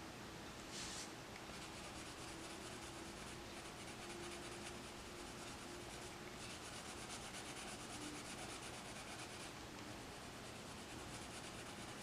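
Coloured pencil shading on paper, in quick, even back-and-forth strokes, in two spells of a few seconds each.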